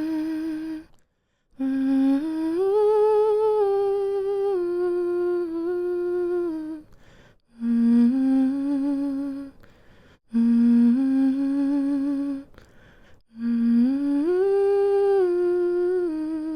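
A woman humming a slow, soothing lullaby tune in long held notes that step up and down, phrase by phrase, with short pauses for breath between phrases.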